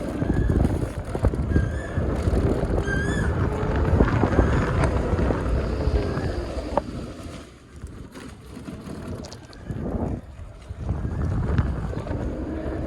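Wind buffeting the microphone while riding an electric scooter, with road and traffic noise under it. The wind drops for a few seconds past the middle, then picks up again.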